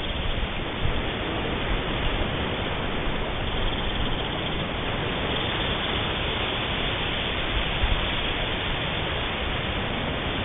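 Steady, even hiss of noise with no distinct events.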